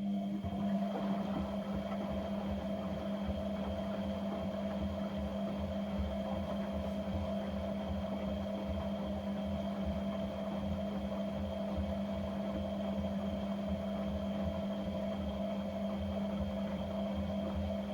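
Electric motor of a household appliance running with a steady hum over a low, uneven rumble, during a cleaning run with a dishwasher tablet.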